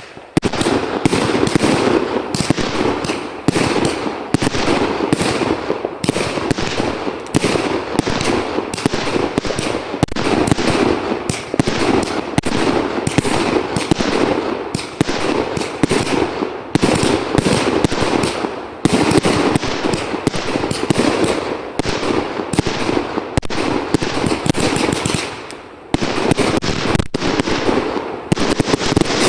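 New Year fireworks going off in rapid succession: a dense, continuous string of bangs and crackles, with a brief lull about three-quarters of the way through.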